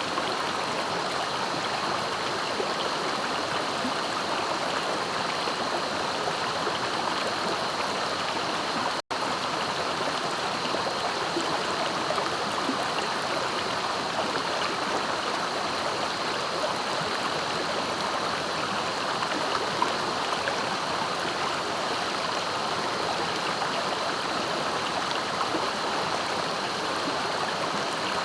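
Swift-flowing river running steadily, with a split-second break in the sound about nine seconds in.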